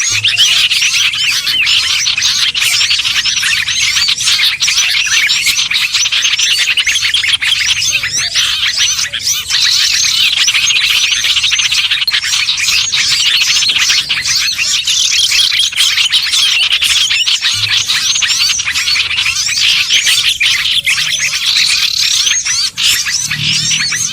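A dense, continuous chorus of many small songbirds chirping and trilling all at once, with no break: a bird-lure (pikat) recording of small birds.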